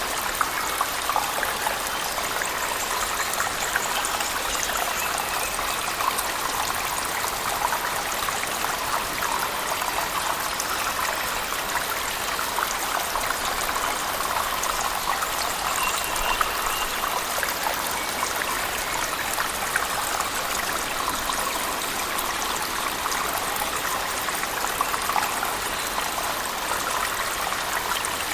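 A waterfall splashing inside a cave, mixed with heavy rain, as a steady unbroken rush of falling water.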